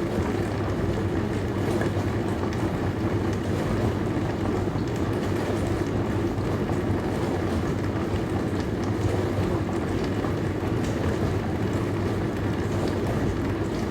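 Dishwasher running through its wash cycle: a steady rush of noise over a constant low hum, with faint light ticks now and then.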